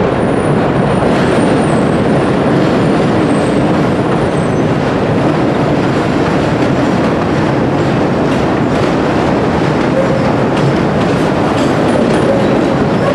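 Chicago 'L' elevated train running over the steel elevated structure: a loud, steady rumble and clatter of wheels on rails, with thin wheel squeals now and then.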